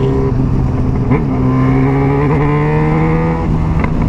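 Yamaha XJ6's inline-four engine through a Jeskap 4-into-2-into-1 aftermarket exhaust, under way and pulling: its note rises steadily, then falls sharply once near the end at a gear change.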